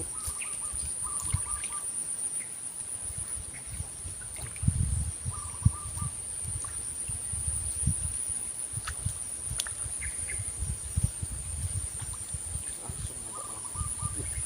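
Insects trilling steadily in a high pitch, with a few short chirps about a second in, around five seconds in and near the end, over irregular low rumbles and thumps.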